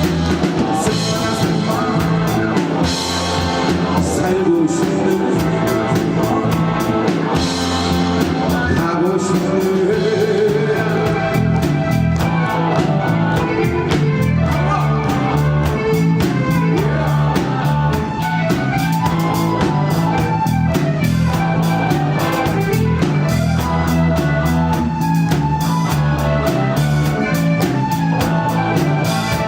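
Live rock band playing: a drum kit keeps a steady beat under a bass line and electric guitar, with a melodic lead line on top.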